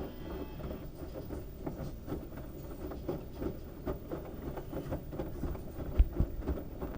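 LG washing machine running a load of wet towels: a low rumble of the turning drum with irregular knocks and rattles as the heavy towels tumble, and a heavier thump about six seconds in.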